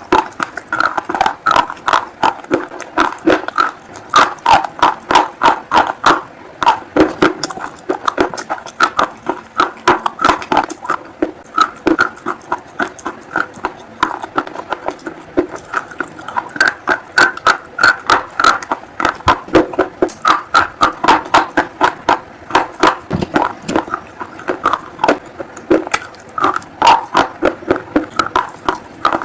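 Close-miked chewing of a crunchy food: a rapid run of crisp crunches, several a second, with wet mouth sounds between them.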